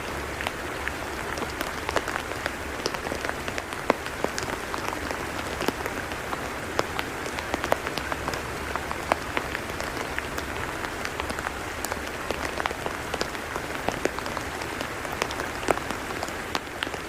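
Steady rain falling on a tidal mudflat: an even hiss with many sharp individual drop ticks scattered through it.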